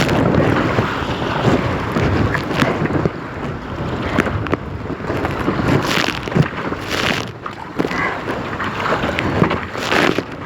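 Strong wind buffeting the microphone on a kayak in choppy water, with splashes from paddle strokes every second or two.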